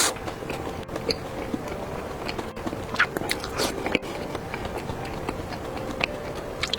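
Close mouth sounds of someone biting into and chewing mini cream puffs: soft, wet chewing broken by scattered small clicks and smacks.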